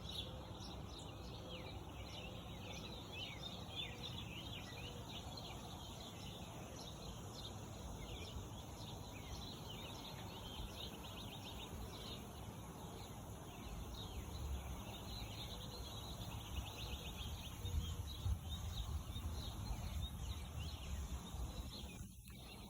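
Many small birds chirping and twittering in quick, overlapping calls, in a morning chorus over a steady low background rumble.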